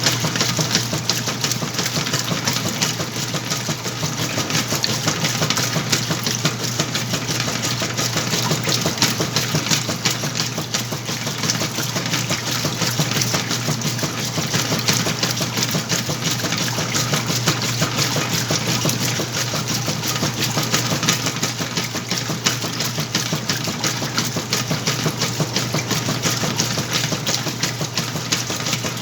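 Whirlpool washing machine running its wash cycle: a steady motor hum with a fast, continuous rattle over it.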